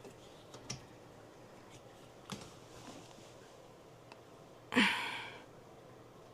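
A few faint clicks, and about five seconds in a short breathy sound from a person.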